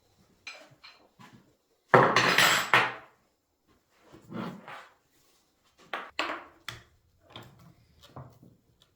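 Metal parts and tools clinking and clattering as they are handled on a workbench, in a run of short separate bursts, the loudest about two seconds in.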